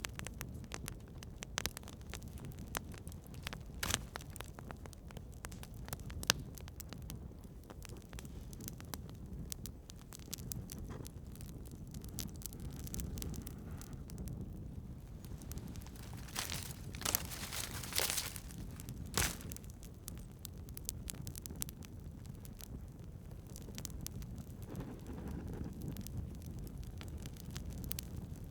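Campfire burning: scattered crackles and pops of burning wood over a low, steady rumble, with a flurry of louder crackling a little past the middle.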